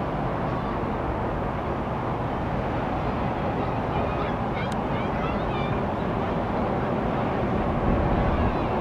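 Boeing 747-8's GEnx jet engines heard as a steady low rumble, growing louder near the end. A few short high chirps and a click come about halfway through.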